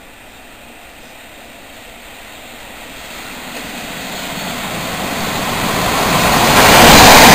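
First Capital Connect electric multiple unit approaching at speed, its running noise growing steadily louder and becoming a loud rush near the end as it reaches the platform.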